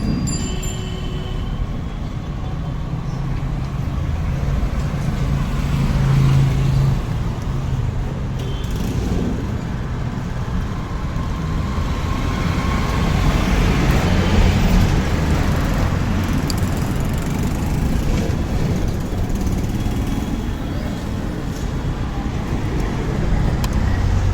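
Motor vehicle engine noise mixed with passing road traffic: a steady low rumble that swells and eases without stopping.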